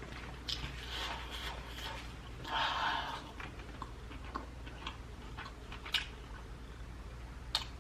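Eating sounds from spicy prawns being peeled and eaten: scattered small, irregular clicks and smacks, with a short sucking or slurping sound about two and a half seconds in.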